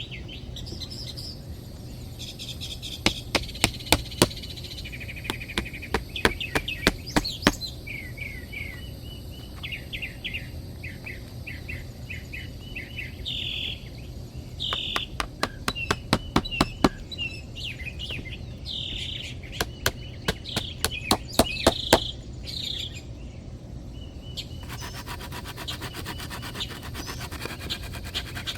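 Small birds chirping and calling, with quick runs of sharp clicks or knocks that come in several bursts.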